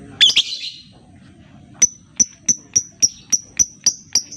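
Lovebird calling: a short, loud chirp, then a steady run of sharp, high 'tik' notes at about three to four a second, the 'ngetik' ticking call used to lure other lovebirds into calling.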